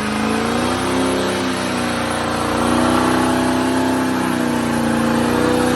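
Ford F250's V8 diesel engine revved hard and held at high revs during a burnout, its pitch wavering up and down and settling high for the last few seconds.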